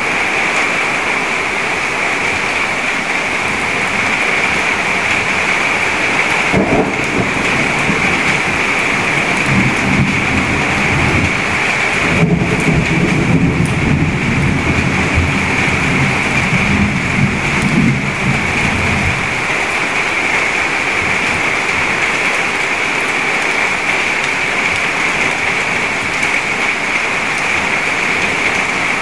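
Steady rain splashing into a puddle. A long low rumble of thunder comes in about seven seconds in, grows loudest around twelve to fourteen seconds, and fades out by about nineteen seconds.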